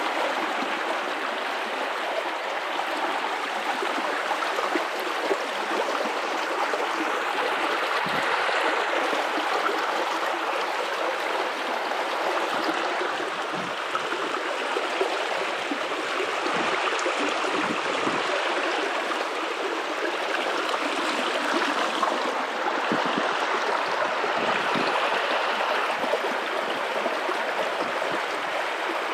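Guadalupe River water running steadily over rocks, a continuous rushing with small gurgles and splashes scattered through.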